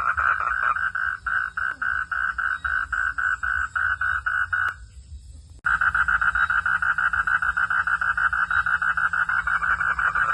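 A frog calling in a fast, even series of pulses, about six a second. The calling breaks off just under five seconds in and starts again abruptly about a second later.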